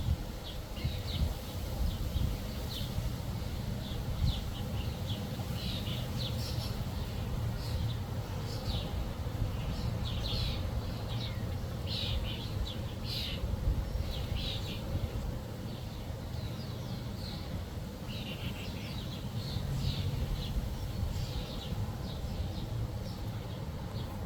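Backyard songbirds chirping: many short, quick chirps in irregular clusters, over a steady low rumble.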